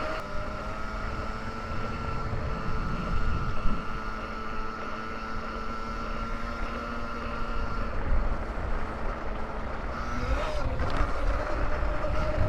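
Sur-Ron electric dirt bike under way: a steady electric-motor whine over low wind and tyre rumble, its pitch shifting slightly about ten seconds in.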